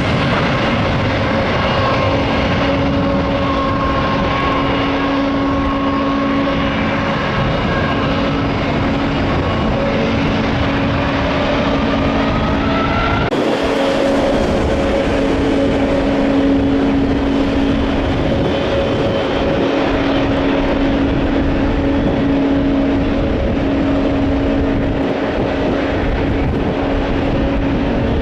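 Jet airliner engines at take-off power, a steady roar with whining tones. For the first 13 s a Boeing 737-800's engines, a whine gliding upward, then a sudden switch to a Boeing 787-9's engines with a steady, lower whine.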